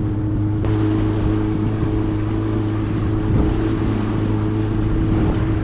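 Old Yamaha outboard motor running at a steady pace, its hum even, with wind and water noise around it.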